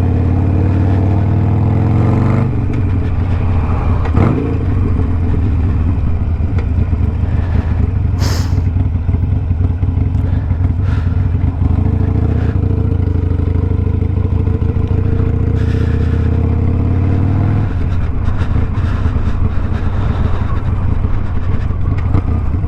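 Stage-one tuned Harley-Davidson Sportster Iron 1200's V-twin, with a Two Brothers 2-into-1 exhaust, running under way. Its note rises at the start and drops about two and a half seconds in, then drops again near the end. A couple of brief knocks come about four and eight seconds in.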